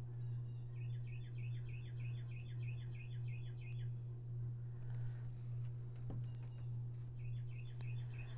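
A bird singing a rapid string of repeated chirps, about five a second, in two runs a few seconds apart, over a steady low hum.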